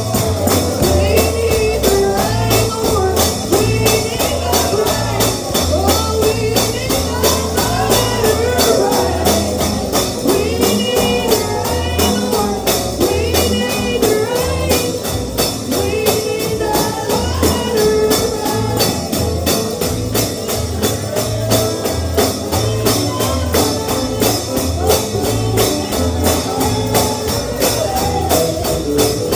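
Bluegrass gospel music: a tambourine shaken on a fast, steady beat over a pulsing bass line, with a melody line sliding in pitch above.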